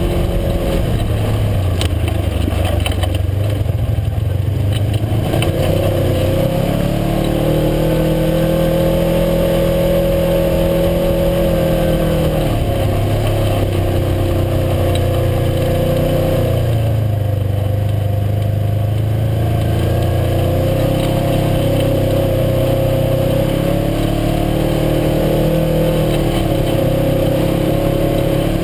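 UTV engine running under way, its pitch rising and falling repeatedly as the throttle is worked, with steady road and wind noise underneath.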